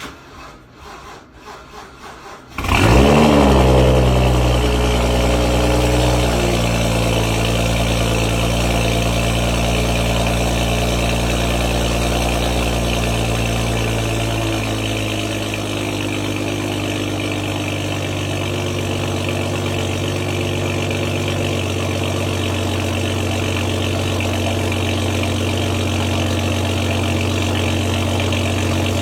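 BMW 335i's N55 3.0-litre turbocharged inline-six on a cold start: the starter cranks for about two and a half seconds, the engine catches with a brief flare of revs, then runs at a steady fast cold idle that eases down a little about halfway through.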